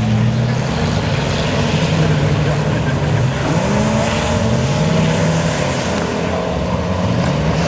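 Engines of racing trucks in a truck cross heat running under power. Their pitch drops and then climbs again about three seconds in and near the end, as the trucks lift off and get back on the throttle.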